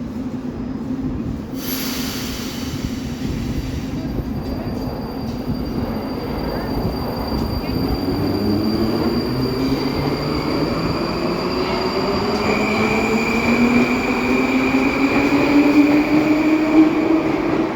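Baltiets metro train pulling away, its traction drive giving a whine of several tones that climbs steadily in pitch as it gathers speed over a steady rail rumble, with a high steady tone joining partway through. A brief hiss comes about two seconds in.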